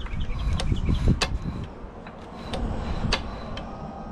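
A 2 hp Hercules hit-and-miss engine being rolled over by hand on its flywheels without firing, with several sharp clicks from the mechanism and low rumbling as it turns; it is not catching because its fuel is not yet turned on.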